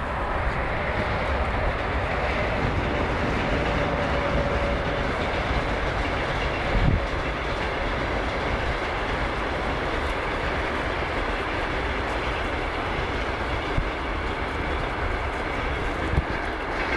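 A train passing on the railway, a steady rumble of wheels on track with a few short knocks.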